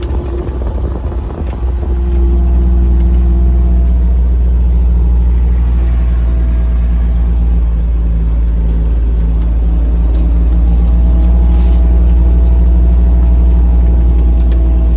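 Engine of a small off-road vehicle running steadily as it drives, a deep rumble with a steady low hum. For the first second or two the sound is rougher and uneven before it settles.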